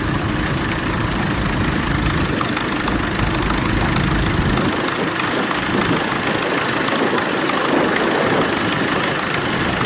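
Tractor engine running steadily, its low rumble thinning out about halfway through.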